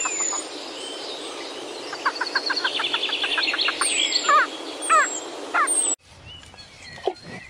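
Several birds calling together: fast trills of rapid repeated notes, short chirps and high downward whistles, with a few louder slurred calls toward the middle. The birdsong cuts off suddenly about six seconds in, leaving only faint background sound.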